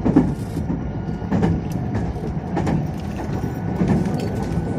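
Meitetsu 2200 series electric train running, heard from inside the car: a steady low rumble with a regular knock about every second and a quarter.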